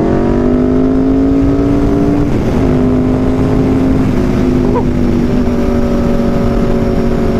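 Aprilia RSV4 V4 engine through an SC-Project CRT exhaust, running at highway speed, its pitch climbing slowly, then dipping a little about two and a half seconds in, as at a gear change, and holding steady. Wind noise on the microphone runs underneath.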